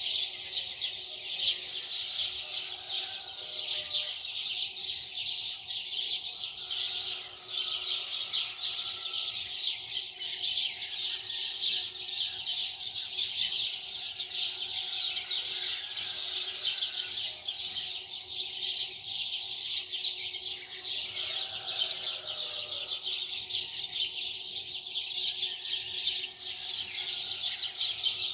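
Many birds chirping at once, a dense high-pitched chatter that goes on without pause, with a few lower calls now and then.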